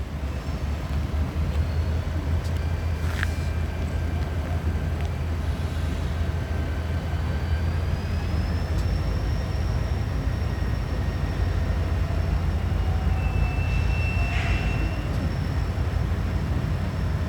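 Diesel locomotives of an arriving Norfolk Southern train running with a steady low rumble, with faint thin high-pitched tones over it.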